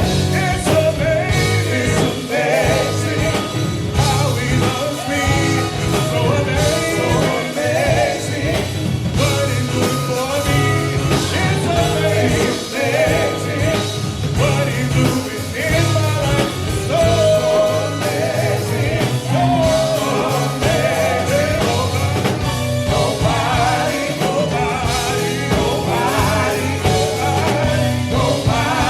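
Gospel vocal quartet singing with a live band: voices over bass and drums.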